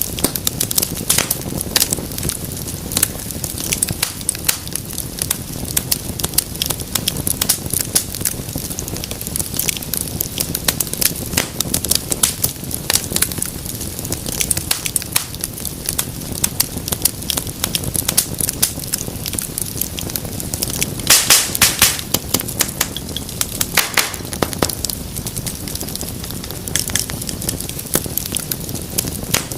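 Wood fire crackling steadily, a continuous run of sharp pops and snaps over a low rushing hiss, with a louder cluster of pops about two-thirds of the way through.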